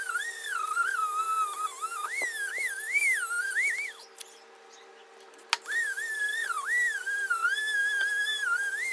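A high whistled tune in two phrases, its pitch wavering and gliding up and down, each phrase starting with a click. A faint steady hum runs underneath.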